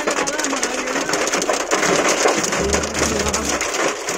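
Heavy rain mixed with hail hitting the car's roof and windows, heard from inside the cabin: a dense, steady patter of countless small hits.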